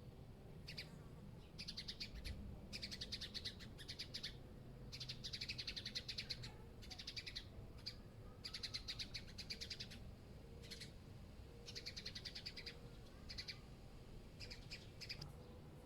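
A small bird chirping in rapid chattering trills, repeated phrases of up to about a second each, over a low steady city rumble.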